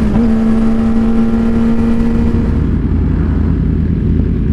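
Sportbike engine running at steady revs while riding, its note holding level for about two and a half seconds before easing off into a low rumble of engine and road noise.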